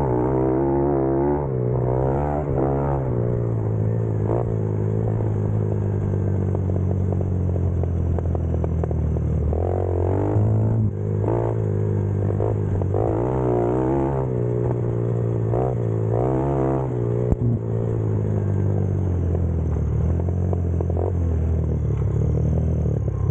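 X-Pro Storm motorcycle engine running under way, its revs rising and falling again and again with the throttle.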